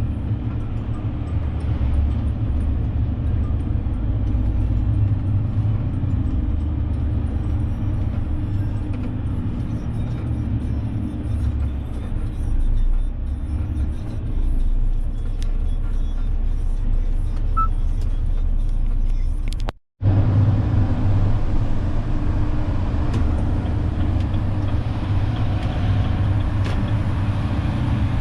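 Renault truck's diesel engine running steadily while driving, with road noise. The sound drops out suddenly for a split second about two-thirds of the way through, then carries on unchanged.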